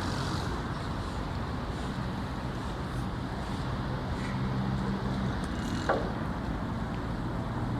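Steady engine noise with a low hum, and one short sharp sound about six seconds in.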